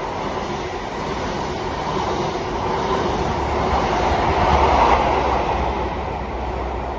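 A train running past on the line, a steady rumble and rush of wheels on rail that swells to its loudest about five seconds in and then eases.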